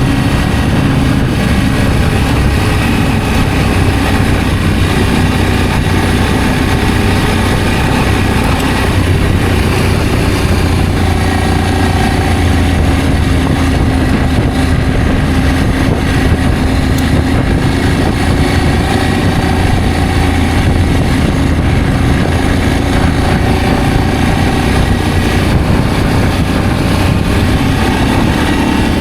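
Adventure motorcycle engine running steadily under way, with a steady rush of riding noise over it.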